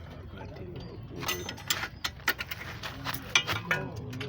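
Irregular clicks and knocks of hand work on car suspension parts, with a voice faintly in the background in the second half.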